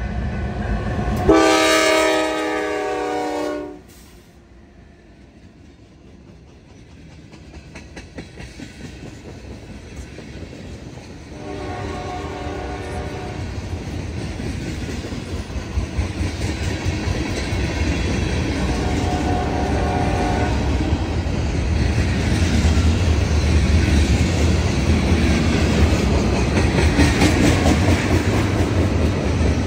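Diesel freight locomotive's air horn sounds one loud blast for a few seconds. After a sudden cut, two fainter horn blasts come from farther off, while freight cars roll past with steady wheel clatter and a low rumble that grows louder near the end.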